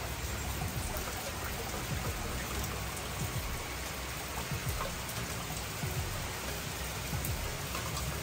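Steady rain falling, with individual drops hitting close by as scattered small clicks.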